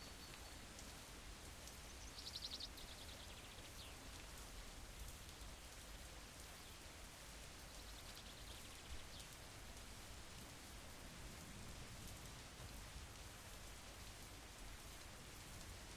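Soft, steady rain falling. About two seconds in there is a brief rapid high chatter, and a fainter one comes near the middle.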